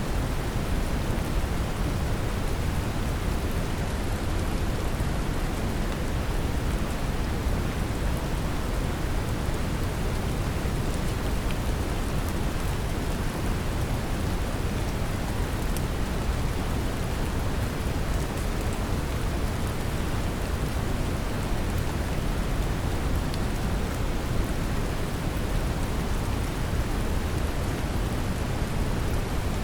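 Steady brown noise, heaviest in the low end, mixed with the even patter of gentle rain, with faint scattered drop ticks.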